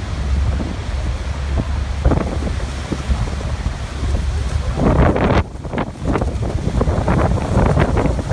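Waterfall rushing, with wind buffeting the microphone as a heavy low rumble that surges and eases. The sound cuts out for an instant right at the start.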